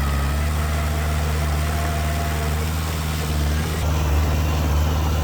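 Heavy diesel engine of earthmoving machinery running steadily at low revs. About four seconds in, the tone shifts slightly and the level rises a little.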